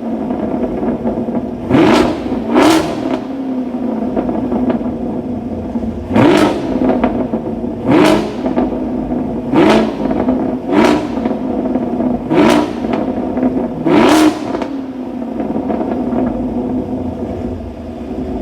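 Chevrolet Camaro SS 1LE's 6.2-litre V8 through an NPP exhaust with its secondary catalytic converters deleted, idling and revved in eight short throttle blips, each rising and falling quickly back to idle, then settling to a steady idle for the last few seconds.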